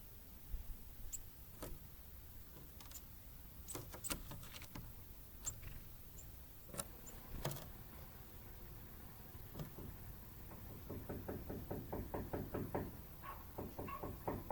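A tit at the feeder hammering a seed with its bill: scattered light taps and a few brief high ticks, then from about ten seconds in a rapid run of knocks, about seven a second.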